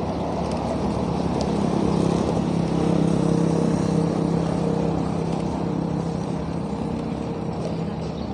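Road traffic: a motor vehicle's engine hum swells and fades as it passes, over a steady rush of road and wind noise.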